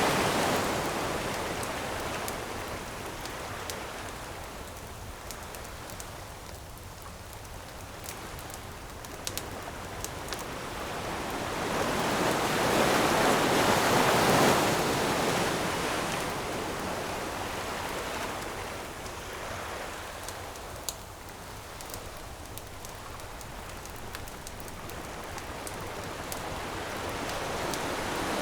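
Ocean waves breaking on the shore in slow swells: one falling away at the start, another surging about halfway through, a third building near the end. Faint crackles of a wood campfire tick in the lulls between waves.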